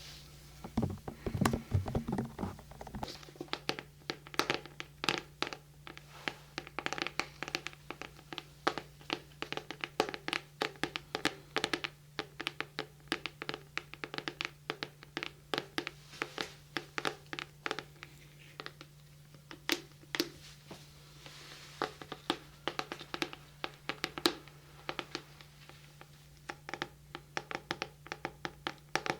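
Fingertip tapping and scratching right at a binaural microphone: quick, irregular light taps, several a second, with a few soft low thumps in the first few seconds.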